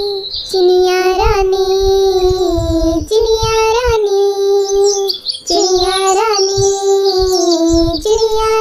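A child's voice singing long held notes without words, over a children's music track with a steady low beat. Short high bird chirps sound through it.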